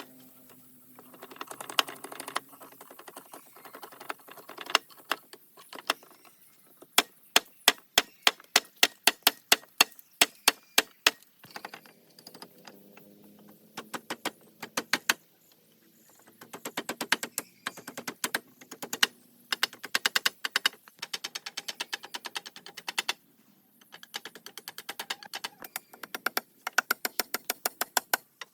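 Rapid series of sharp taps and knocks, hard object on hard material, in runs with short pauses. There is a steady run of about four strong knocks a second in the first half, then faster, denser tapping later.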